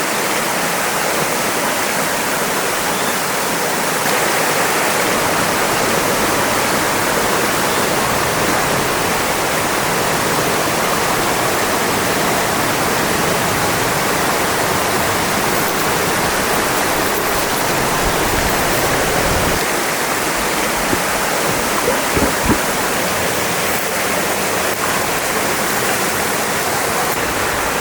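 Steady rush of a narrow, fast-flowing mountain stream, with a few soft bumps about three-quarters of the way through.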